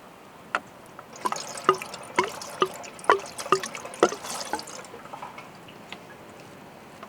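Liquid glugging as it is poured, a quick run of about eight glugs that then stops.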